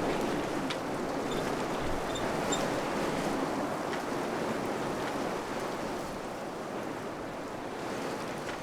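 Wind blowing with a steady rushing noise that eases a little near the end, with a few faint high ticks in the first seconds.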